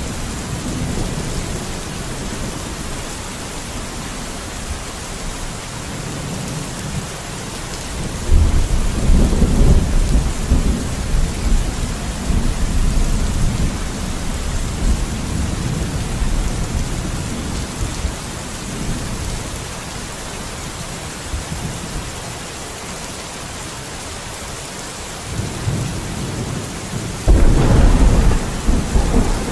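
Steady rain with rolling thunder: one long rumble starts about eight seconds in and fades over several seconds, and a second loud clap breaks in near the end.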